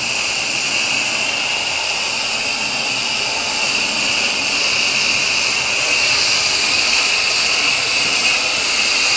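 Hose-fed coil-cleaner spray gun spraying water and cleaner onto an air conditioner's outdoor condenser coil: a steady, loud hiss of spray that starts suddenly.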